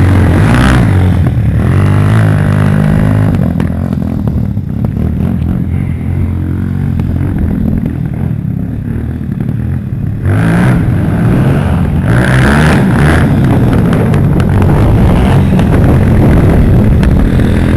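Pit bike engines running hard and revving; the sound drops back for several seconds, then comes back loud suddenly about ten seconds in, rising and falling in pitch as the throttle is worked.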